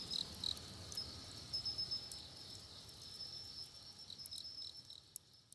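Crickets chirping in a steady high trill, with scattered small crackles and pops from a low campfire, fading out at the end.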